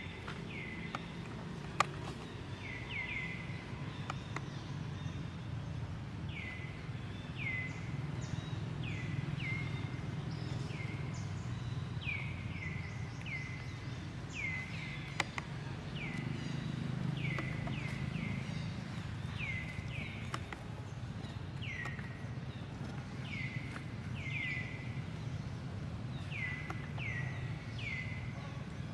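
An animal giving short, high-pitched calls, each dropping sharply in pitch, about one a second in irregular runs, over a steady low rumble. A sharp click comes about two seconds in.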